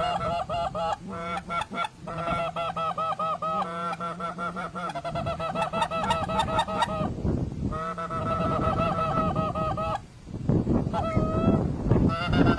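Goose honks and clucks in a fast, steady series, about four short calls a second, broken by a few brief pauses. Near the end the calls thin to a couple of single honks over wind rumble.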